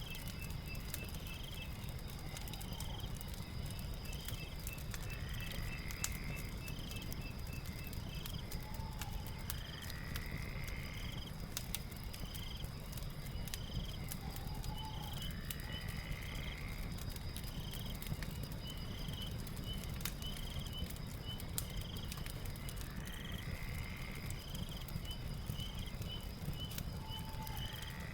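Night ambience with a crackling fire: a low steady rumble under scattered sharp crackles. Over it, a steady high insect drone, a fast trill in the first eight seconds or so, and short rising chirping calls repeated every two to three seconds.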